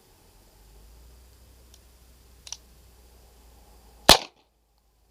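A single .22 pistol shot from a USFA Zip 22, sharp and loud, about four seconds in, preceded by two faint clicks of handling the gun.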